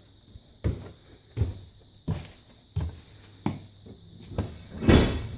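Footsteps climbing a wooden staircase: a steady series of heavy thumps, about one step every 0.7 seconds.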